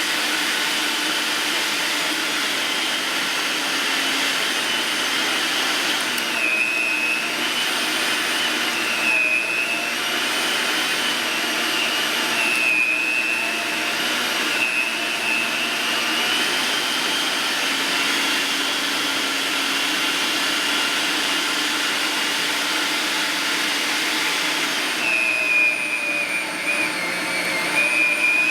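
Electric meat grinder (GoWise 800-watt) motor running steadily with a high whine, grinding beef through the medium plate; the whine dips in pitch several times, longest near the end.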